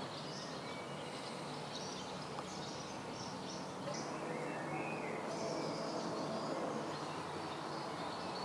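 Quiet ambience with faint bird chirps now and then over a low steady hum.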